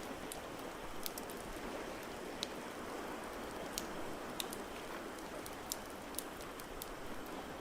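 Wood fire in a fireplace crackling, with irregular sharp pops about once or twice a second, over a steady wash of water noise.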